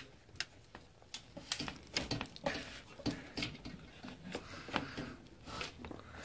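Irregular light clicks and knocks of hand tools and small parts being handled while working on an opened microwave.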